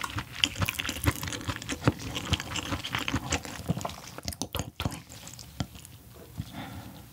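Close-miked chewing of raw fish: wet clicks and smacks, dense at first and thinning out about four to five seconds in to a few faint small sounds.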